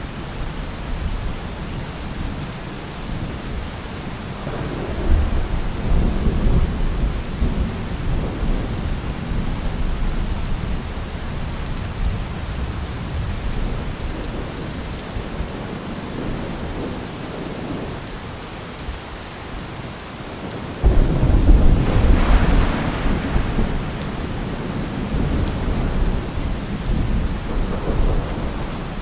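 Steady rain with thunder: a low rumble swells about five seconds in, then a sudden loud thunderclap about two-thirds of the way through rumbles away over several seconds.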